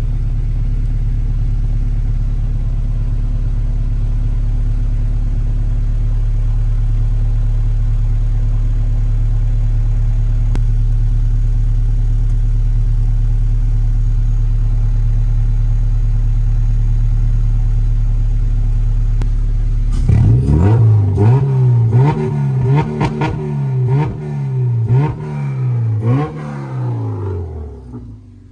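K20-swapped Honda Civic's engine running at a steady, even pitch. About twenty seconds in it cuts off abruptly to music with a deep sliding bass and regular drum hits.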